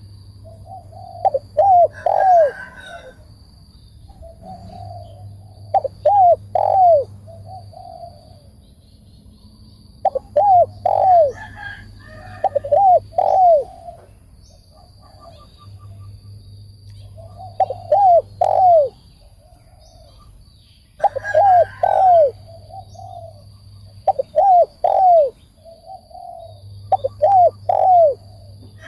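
Spotted dove cooing, its phrase of arched, rising-and-falling coo notes repeated every few seconds, about eight times, with faint chirps of other birds.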